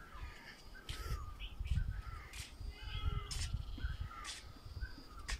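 Birds calling outdoors: sharp calls repeat about once a second, with shorter chirps between them, over a low rumble.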